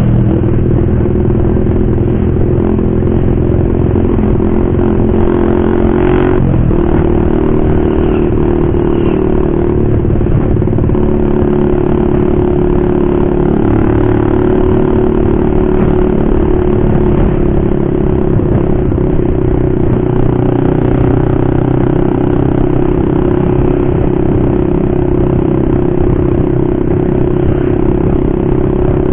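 Motorcycle with a loud aftermarket racing exhaust running steadily while ridden, its engine note holding fairly even throughout.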